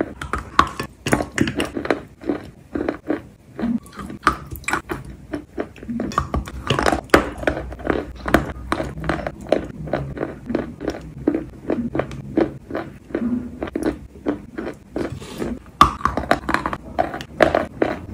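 Chewing and biting wet chalk with paste: a steady run of short crunches, about two or three a second.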